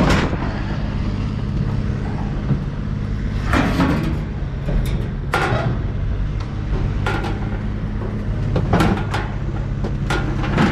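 A vehicle engine running steadily, with several sharp metal clanks and knocks as a heavy old stove is shifted on the truck.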